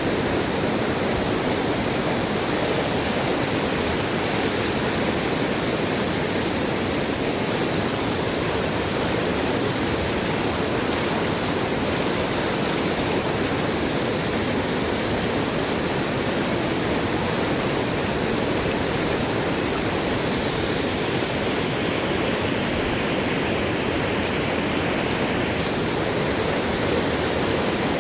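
Fast-flowing, swollen river water rushing steadily.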